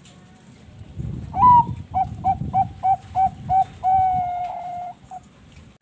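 Zebra dove (Bangkok-line perkutut) singing one full song. It opens with a rising note, then six short clipped coos at about three a second, and ends on one long held coo.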